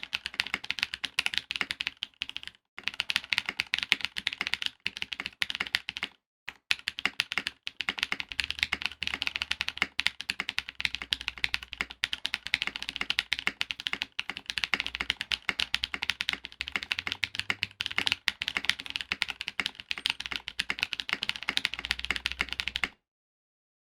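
Fast typing on a mechanical keyboard with Corsa tactile switches (nylon housings, POM stems, 60 g springs) under PBT keycaps on an FR4 plate with foam, giving a dense stream of keystroke clacks. There are brief pauses around 3 and 6 seconds in, and the typing stops abruptly near the end.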